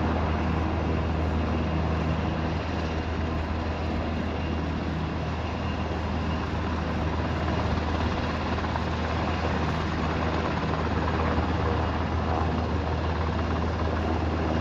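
Helicopter running steadily nearby: a strong low rotor hum under a broad rush of engine and rotor noise, holding even throughout.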